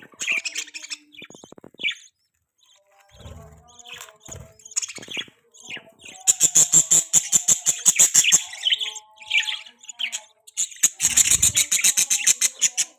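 Budgerigars chirping in short high bursts, breaking into long runs of rapid, busy chatter about halfway through and again near the end.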